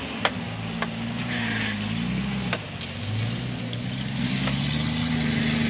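Off-road 4x4 engine running and being revved as it works over a trial obstacle, its pitch rising and falling. Several sharp clicks and a brief hiss about a second and a half in.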